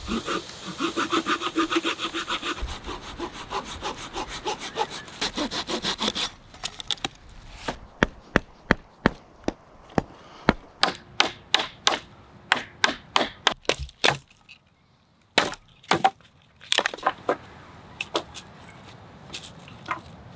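Wood being sawn by hand. The saw strokes come quick and dense for the first six seconds, then slow to separate strokes about two a second, with a brief pause near the end before a few more strokes.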